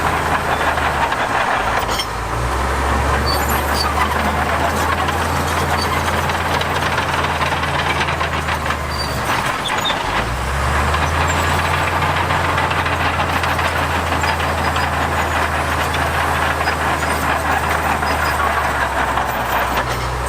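Heavy diesel engine of construction machinery running under load, with a deep steady hum and mechanical clatter. Its note dips and picks up again twice, about two seconds in and about ten seconds in.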